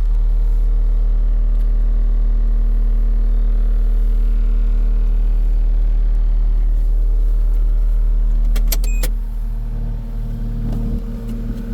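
Case SV280B skid steer's diesel engine running steadily with a deep hum. About eight and a half seconds in come a few sharp clicks, and then the engine note drops and turns quieter and rougher.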